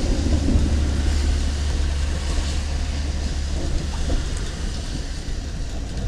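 Thunder rolling away in a low rumble that is strongest for the first couple of seconds and then fades, over a steady hiss.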